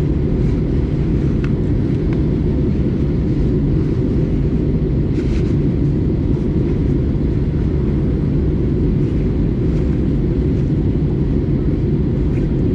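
Steady low rumble inside the cabin of an Airbus A320-200 in flight: engine and airflow noise at an even level, with a faint click or two.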